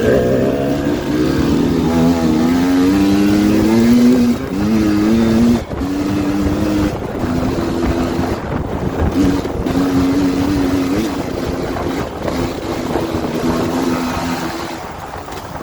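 Dirt bike engine pulling hard: its pitch climbs for about four seconds, drops sharply twice as it shifts up, then holds fairly steady revs broken by repeated short throttle lifts.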